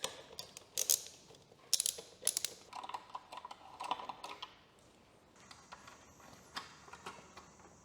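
Irregular small metallic clicks and ticks of a 3 mm hex key working motorcycle fairing bolts loose, for about the first five seconds. After that it goes quieter, with a faint steady high tone.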